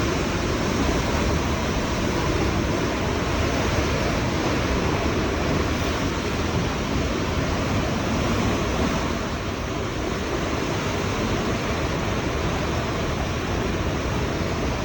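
Hurricane-force winds blowing steadily, a dense, unbroken rush of noise with no let-up.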